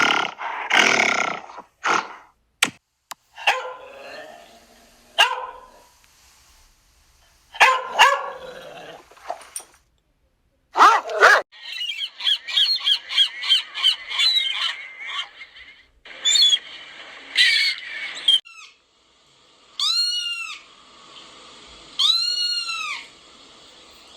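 A succession of different animals calling one after another: sharp dog barks at the start, then short calls from other animals, a few seconds of fast repeated chirping, and two long rising-and-falling whistled calls near the end.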